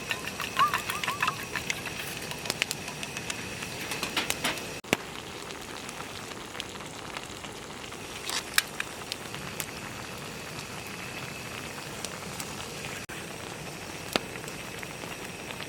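Wood campfire crackling, with sharp pops scattered over a steady hiss.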